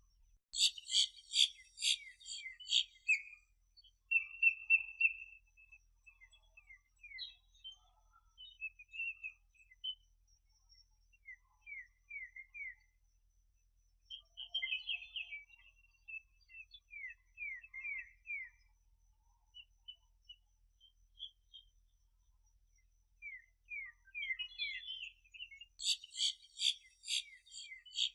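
Small birds chirping and singing: a dense rapid trill at the start and again near the end, with scattered high chirps and quick falling notes in between.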